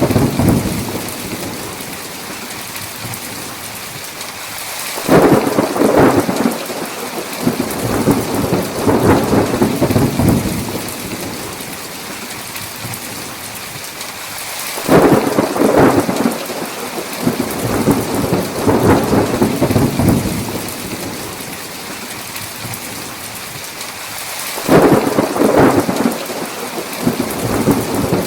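Steady heavy rain with rolling thunder: three peals about ten seconds apart, each starting suddenly and rumbling on for several seconds.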